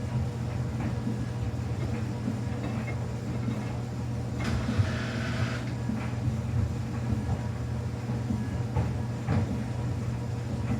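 Samsung washing machine running, its motor giving a steady low hum, with a brief hiss of rushing water about halfway through.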